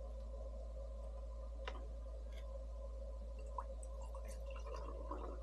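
Quiet eating sounds: a few faint, short clicks and smacks, over a steady low hum.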